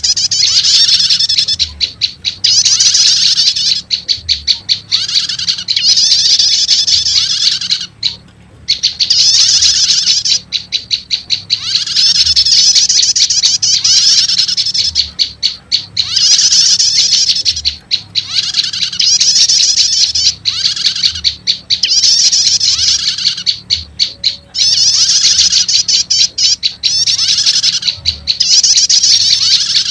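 Bird-lure recording of prenjak lumut song mixed with prenjak setater calls. Loud, high, buzzy trilling phrases alternate with fast runs of sharp ticking notes, repeating every second or two.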